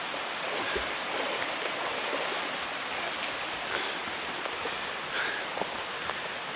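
Mountain stream water rushing in a steady, even wash.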